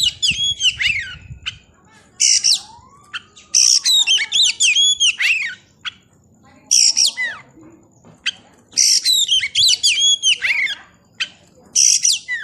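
Oriental magpie-robin (kacer) singing loud phrases of rapid, varied whistles mixed with harsh notes, about six bursts separated by short pauses. A faint steady high tone runs underneath.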